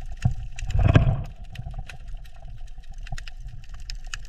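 Underwater reef ambience: irregular crackling clicks over a steady low rumble, with a louder rushing swell about a second in.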